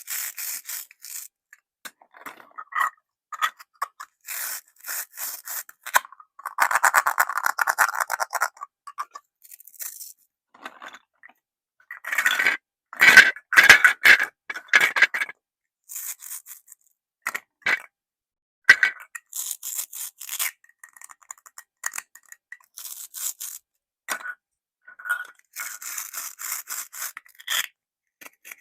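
Plastic toy fruits and vegetables scraping, rubbing and clicking against a plastic toy basket as they are handled and dropped in: scattered clicks and short scraping runs, the loudest about a quarter and half way through.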